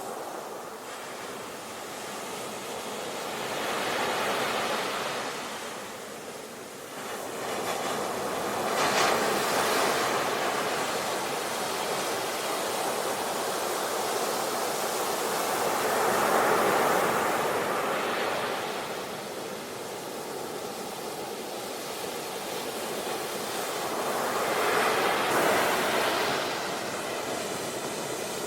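Sea waves breaking and washing onto the shore: a surf noise that swells and falls back in four slow surges, several seconds apart.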